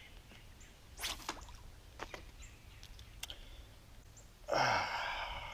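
A man's loud breathy exhale or sigh lasting about a second near the end, after a quiet stretch with a brief rustle about a second in and a few faint clicks.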